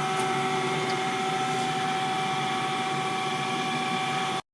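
Schaudt cylindrical grinder running steadily: a constant machine hum with several fixed pitched tones over a hiss. The sound cuts off abruptly near the end.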